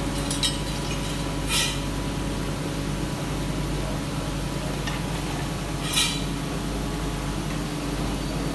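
Steady hum of running workshop machinery, with sharp metallic clinks of metal parts about half a second in, again a second later, and around six seconds in.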